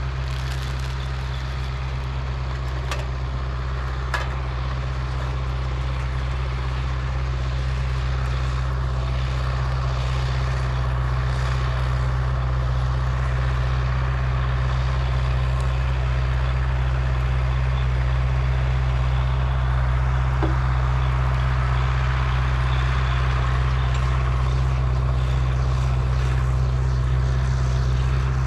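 A large engine running with a steady low drone that slowly grows louder.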